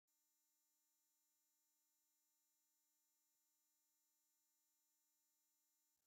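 Near silence: only the recording's very faint, steady noise floor, with a few thin constant tones in it, starting abruptly out of digital silence.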